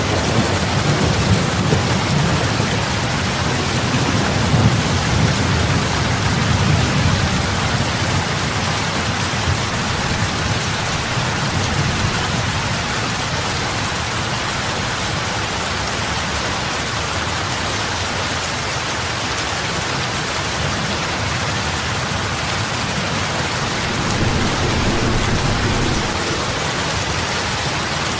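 Steady rain falling on lake water, with a dense patter of drops. A low rumble runs underneath, heavier in the first several seconds and again near the end.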